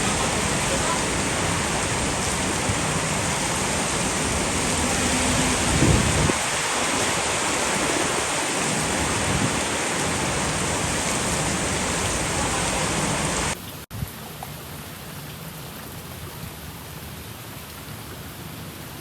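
Heavy rain pouring down steadily, with a brief low rumble about six seconds in. About two-thirds of the way through, the sound cuts off abruptly to lighter, quieter rain.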